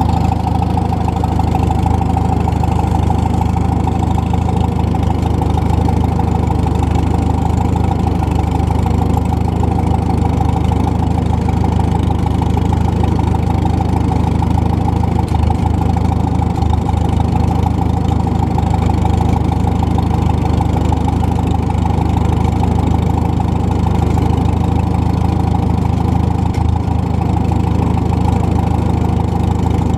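McCormick W-4 tractor's four-cylinder engine running at an even, unchanging speed.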